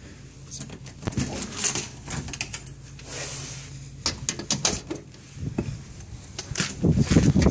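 Scattered clicks, knocks and rustling from handling, over a faint steady low hum.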